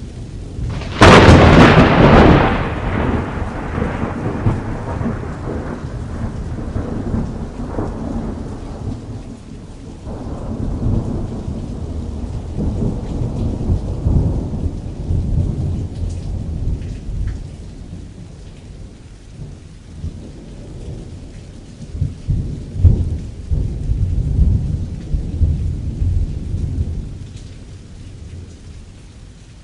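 Thunder: a sharp, loud crack about a second in that rolls off into long low rumbling, with more rumbles rising and fading later, over steady rain falling on a canvas.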